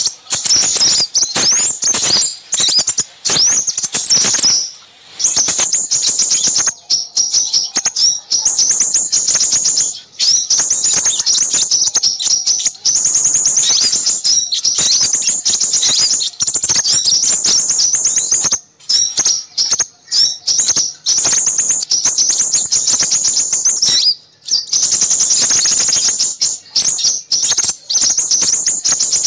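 Dense, busy high-pitched chirping and twittering of many small birds, with rapid calls packed close together and only brief pauses. It is a recorded bird-lure track of noisy small birds, played to draw in crimson sunbirds.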